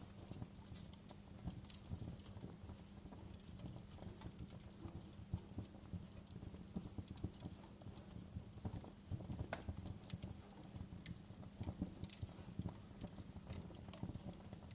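Wood fire crackling: irregular sharp pops and snaps of varying loudness over a low, steady rumble of burning.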